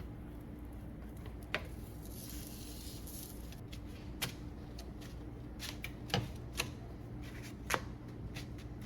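Tortillas being flipped and handled on a hot griddle: a handful of sharp taps and clicks over a steady low hum, with a short hiss about two seconds in.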